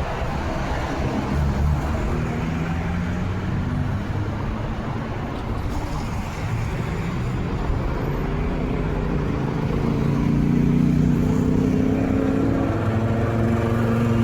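Road traffic with car engines running close by. A steady low engine hum grows louder in the second half, as a vehicle nears or idles close by.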